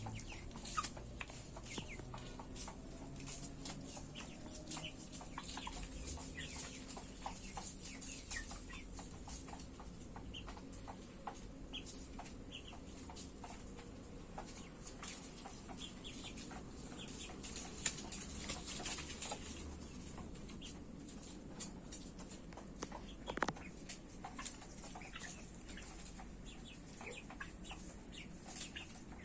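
A flock of 54-day-old broiler chickens clucking, with many short calls scattered throughout over a steady high hiss.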